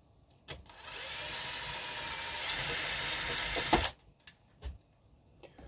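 Small electric drill running steadily for about three and a half seconds, opening out misaligned holes in a 3D-printed plastic frame. A few light clicks and taps follow.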